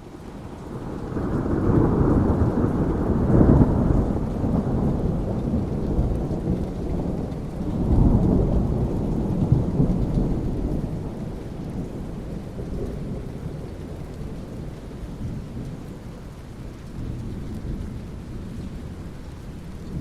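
Thunderstorm: rolling thunder builds in over steady rain, swells twice within the first half, then trails off into a long, fading low rumble while the rain keeps falling.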